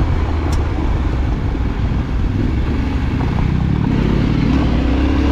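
Yamaha Ténéré 700's parallel-twin engine running under way, recorded from the moving bike, its note rising a little from about three seconds in. A short click sounds about half a second in.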